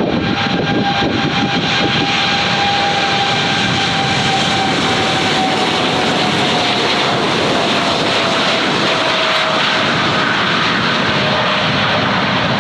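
Airliner's jet engines running loud and steady close by, a roar with a whining tone that slowly falls in pitch as the plane goes past.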